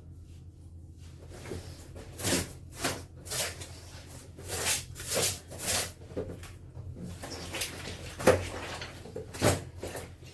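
Clothes being washed by hand: a run of short swishing scrubbing strokes, about two a second, followed by a few sharper slaps of wet fabric, the loudest about eight seconds in.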